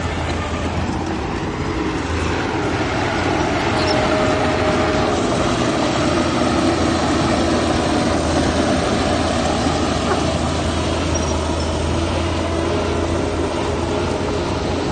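Diesel engines of heavy earthmoving machinery running steadily, a continuous engine drone with a low hum underneath.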